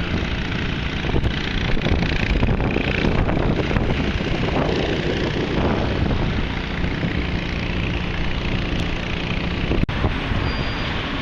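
Steady city street noise: vehicle traffic, with wind on the microphone.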